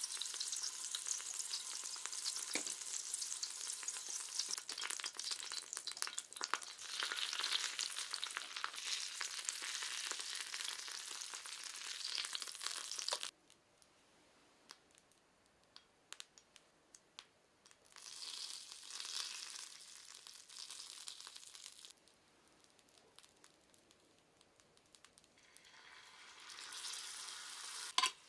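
Tofu sizzling as it is stir-fried in a pan, with the light clicks of stirring. The sizzle cuts off abruptly about halfway through, comes back for a few seconds, stops again, then builds once more near the end.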